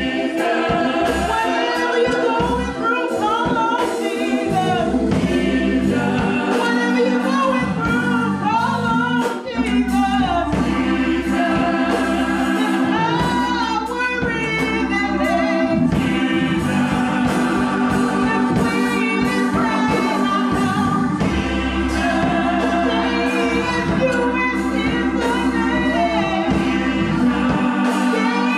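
Gospel choir singing with instrumental accompaniment: held, bending sung notes over a steady bass, with a regular beat of percussive strikes.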